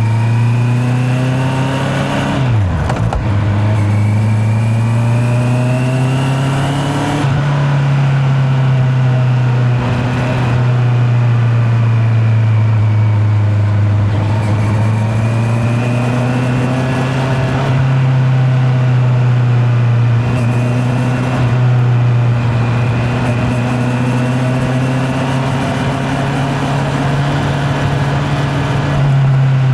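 Honda CB650R's inline-four engine under way, heard from a microphone in the rider's back pocket. The pitch climbs as it pulls, drops sharply at a gear change about three seconds in and again about seven seconds in, then holds a steady cruise with gentle rises and dips.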